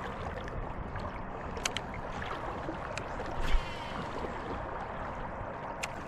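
Steady rush of flowing river water, broken by a couple of sharp clicks and a brief low bump about halfway through.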